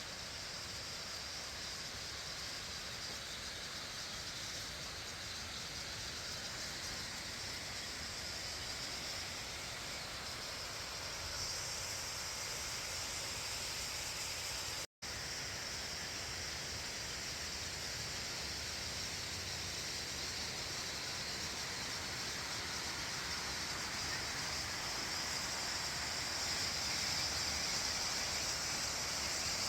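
A 100-foot waterfall: the steady rush of falling water. It drops out for an instant about halfway through and grows a little louder near the end.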